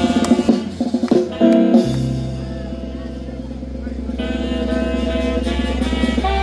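Band music with a horn melody of held notes and drums, over a steady low hum.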